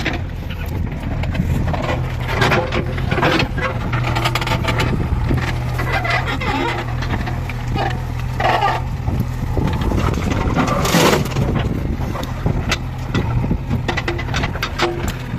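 JCB 3DX backhoe loader's diesel engine running steadily, with scattered knocks and clanks throughout, the loudest about eleven seconds in.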